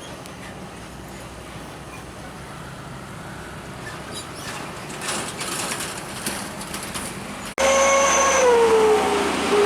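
Heavy highway traffic passing with a steady rushing noise that swells about halfway through. Near the end the sound cuts abruptly to a much louder pitched tone from a passing truck, which dips in pitch and then holds steady.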